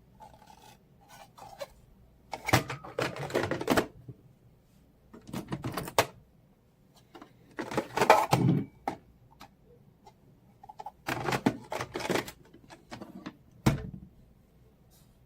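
Clattering and scraping handling noise in about five bursts of a second or so each, with short pauses between them.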